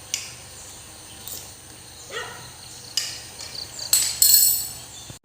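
Cats working at a basket to get at the snacks inside: scattered rustles and light knocks, with a louder rustling about four seconds in.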